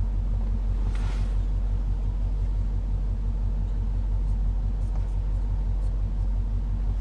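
The 2021 Range Rover Sport SVR's 5.0-litre supercharged V8 idling steadily, a low even rumble heard from inside the cabin.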